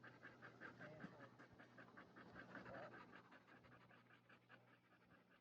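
A dog panting faintly, in quick, even breaths.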